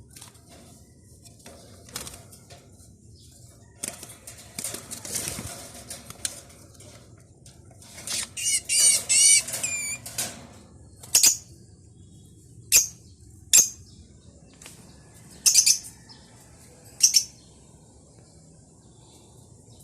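A small maya bird fluttering its wings, with a run of quick high chirps about halfway through. Several short, sharp high sounds follow a second or two apart.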